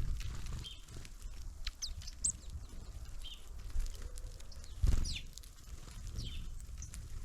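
Small birds at a feeder giving short, high chirps and calls, some sweeping downward. They come with scattered knocks and thumps, the loudest about five seconds in, over a low rumble.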